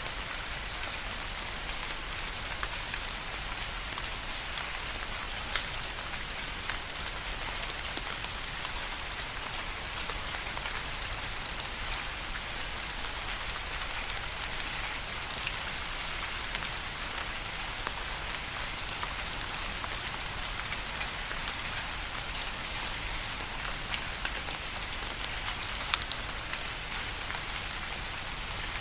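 Steady rain falling, a continuous hiss of drops with many individual drops ticking sharply on a surface and a few louder drop hits scattered through.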